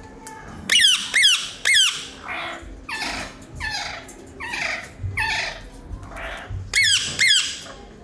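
Caged bird squawking. Three loud, shrill squawks come close together about a second in, then a run of quieter, harsher falling calls about twice a second, then two more shrill squawks near the end.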